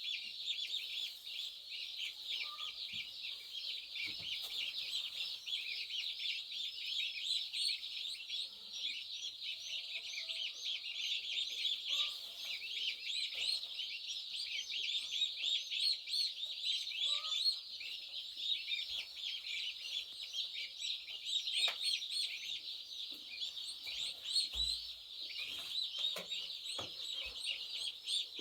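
A brood of day-old turkey poults and chicks peeping nonstop: many high, overlapping peeps at once. A few faint knocks come near the end.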